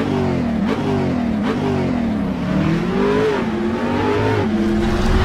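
A large engine revving, its pitch rising and falling several times with a longer climb and drop about three seconds in.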